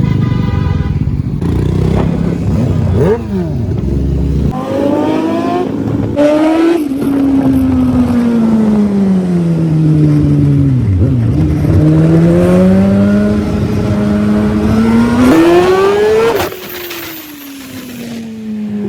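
Kawasaki ZX-10R inline-four superbike engine running hard. Its pitch falls for several seconds, climbs steadily for about five seconds, then cuts back sharply near the end.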